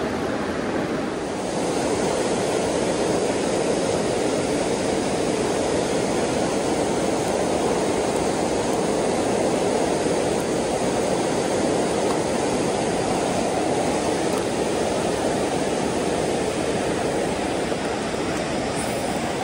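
Steady rush of fast-flowing creek water, an even noise without pitch that holds level throughout.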